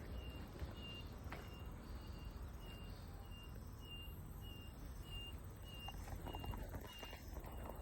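An electronic alarm beeping steadily, short high beeps of one pitch repeating about every 0.6 seconds, over a low rumble of vehicle traffic.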